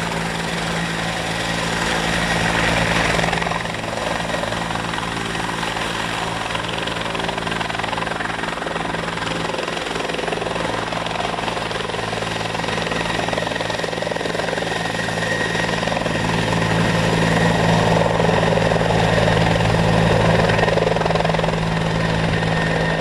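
Park Police helicopter running with its turbine engines and rotor turning, a steady whine and rotor beat, getting louder in the last several seconds.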